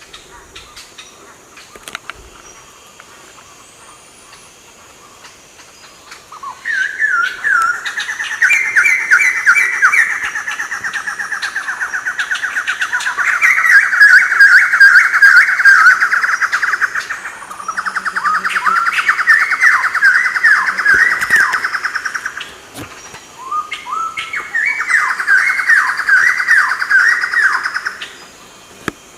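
A bird singing loud, rapid trills that sweep up and down, starting about six seconds in and coming in four long bouts with short breaks between them.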